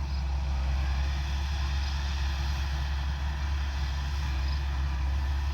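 Combine harvester's diesel engine running steadily with a deep, even hum.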